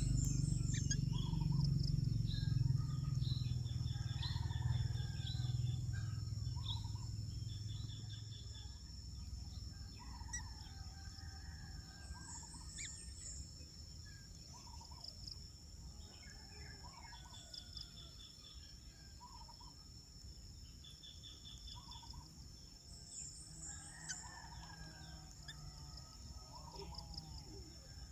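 Birds calling and chirping, with short repeated trills, over a steady high-pitched buzz; a low rumble fades out over the first eight seconds.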